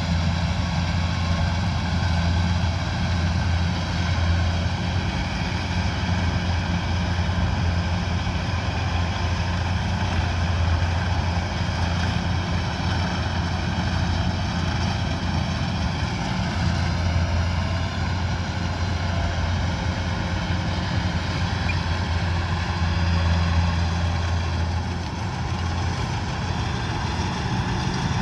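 Kubota DC-105X combine harvester's diesel engine and threshing machinery running steadily with a strong low drone that eases briefly a couple of times.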